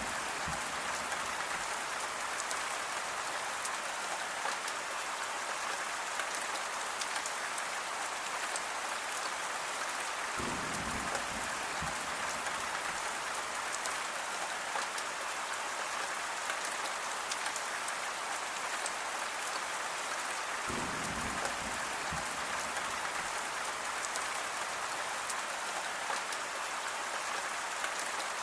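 Steady rain falling, an even hiss throughout. A brief low rumble comes twice, about ten seconds apart.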